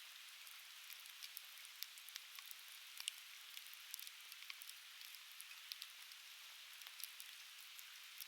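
Coniferous firewood burning in an open fire pit, crackling with many small irregular pops over a faint steady hiss.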